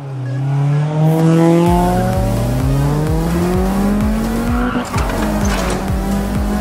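Race car engine sound effect revving with a steadily rising pitch for about five seconds, then a tyre screech near the end, over background music with a steady beat.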